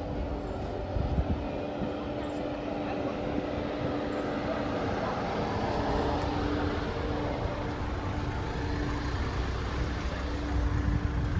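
An engine running with a steady, even hum over low rumble and general outdoor noise.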